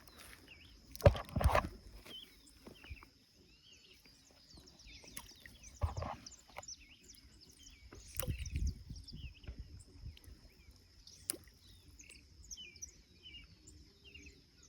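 Birds chirping over a steady high-pitched insect drone. Close handling bumps and rustles break in about a second in, again around 6 and 8–9 seconds, with a sharp click about 11 seconds in.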